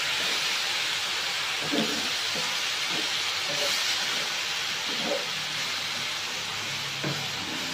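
Enoki mushrooms sizzling steadily in hot oil in a frying pan as they are turned with a spatula, with a few light knocks of the spatula against the pan.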